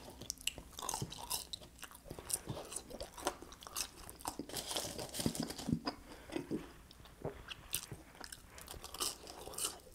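A person chewing French fries close to the microphone: many short, irregular mouth clicks and chewing sounds.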